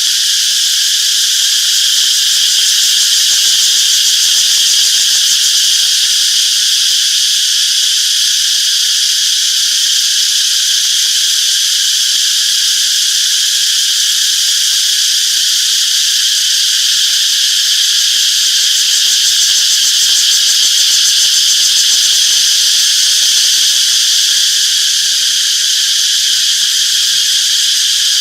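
Cicadas calling in chorus: a loud, steady, high buzzing that never lets up.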